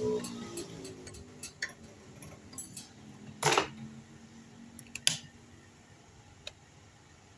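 Scattered clicks and knocks of tools and metal parts being handled while an electric fan is worked on, with a louder scrape about three and a half seconds in and a sharp click about five seconds in. A low hum fades out in the first second.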